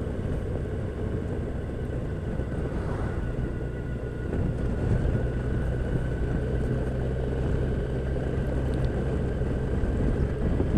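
Motorcycle trike engine running steadily at cruising speed, with road noise on the rider's microphone; it gets a little louder about four seconds in.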